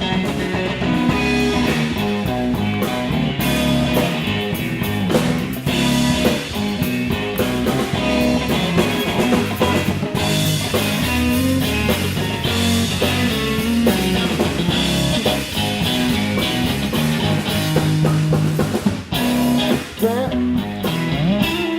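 Live blues-rock trio playing an instrumental stretch between sung verses: guitar, bass guitar and drum kit.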